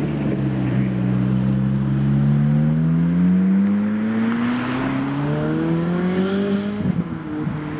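A supercar's engine accelerating, its pitch climbing steadily for several seconds, then dropping suddenly near the end.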